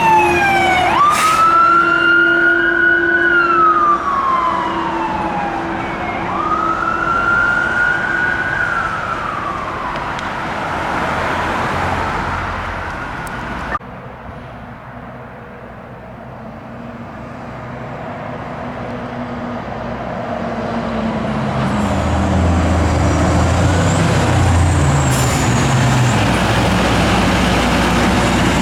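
Fire truck siren wailing, its pitch sweeping down and up over about ten seconds, with a steady low horn tone held under it for the first few seconds. After a sudden cut around the middle, a heavy truck's engine rumbles and grows louder as it approaches.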